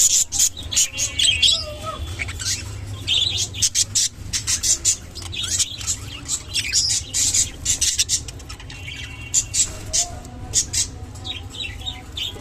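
Budgerigars chirping and chattering in a rapid run of short, high calls, with clicks mixed in. A steady low hum lies underneath.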